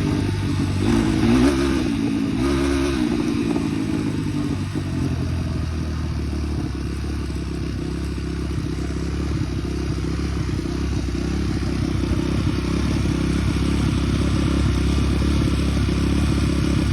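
Small off-road engine running under way. Its pitch rises and falls for the first few seconds, then holds steady.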